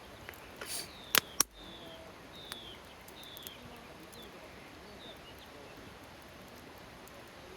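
Campfire wood crackling, with two loud sharp pops a little over a second in and scattered smaller clicks. A few short high chirps falling in pitch sound in the first half.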